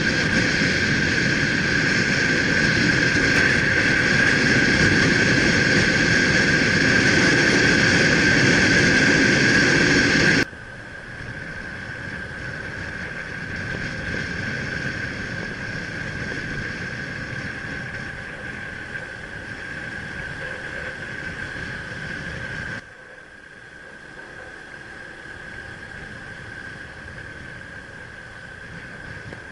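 Motorbike riding on the road: steady engine and road noise with a constant high whine. The sound drops sharply in level twice, about ten seconds in and again about twenty-three seconds in.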